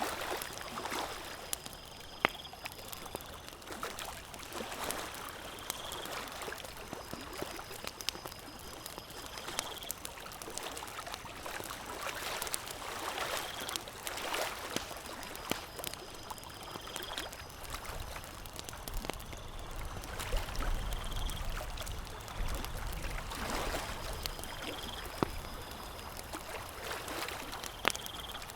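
Campfire crackling with scattered sharp pops over a wash of lake water lapping at the shore, the water swelling every few seconds.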